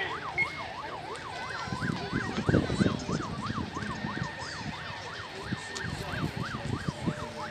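Police vehicle siren on a fast yelp, its pitch sweeping up and down about three times a second.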